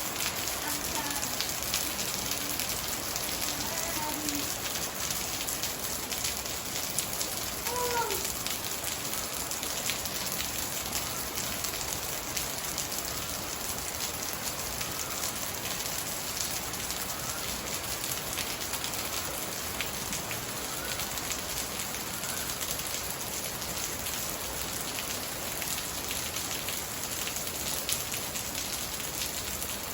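Steady rain falling, a continuous hiss dense with the hits of individual drops.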